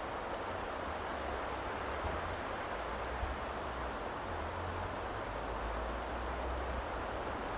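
Steady hissing woodland ambience, with a low rumble that swells and fades and faint high chirps now and then.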